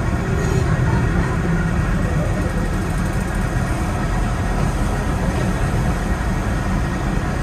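Diesel passenger train running along the track: a steady low engine drone mixed with the rumble of the wheels on the rails.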